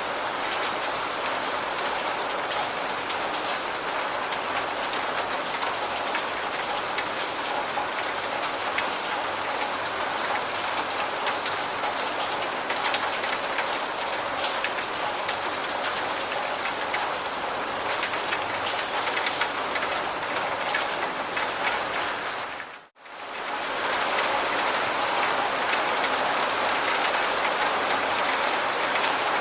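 Steady rain falling, a dense hiss with many small drops ticking through it. About three quarters of the way through it dips sharply to near silence for a moment, then comes back slightly louder.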